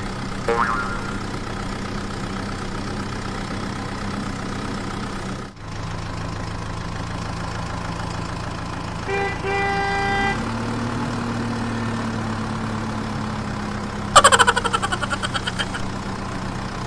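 Steady vehicle engine hum with two short horn beeps around the middle, the engine note lifting slightly just after, then a fast ringing trill that fades near the end.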